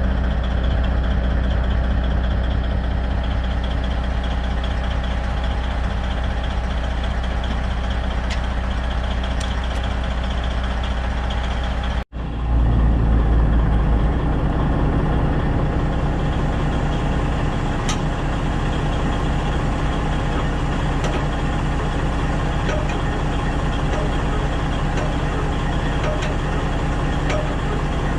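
Heavy diesel truck engine idling steadily, with a brief dropout about twelve seconds in.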